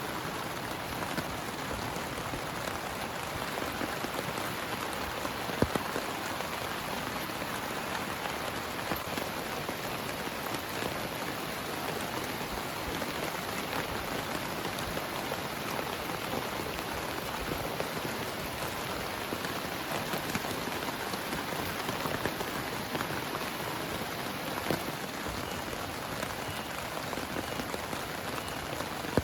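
Heavy rain falling steadily and densely, with a couple of sharper single drop impacts standing out.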